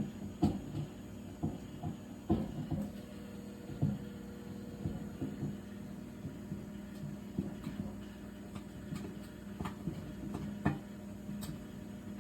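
A steady low hum with irregular soft knocks and clicks over it, roughly once a second.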